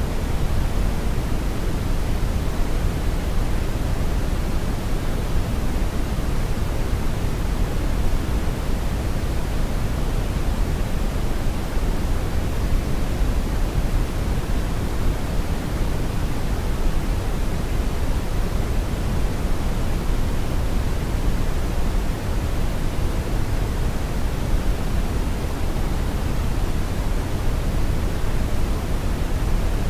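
Steady brown noise: an even, unchanging rumbling hiss weighted heavily toward the low end, with no tones or events.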